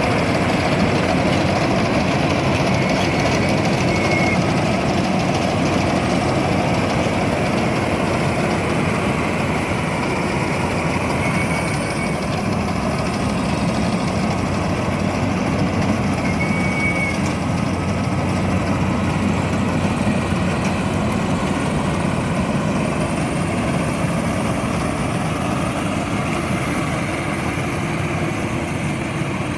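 World combine harvester's engine running steadily while harvesting rice, with three brief high-pitched chirps over it.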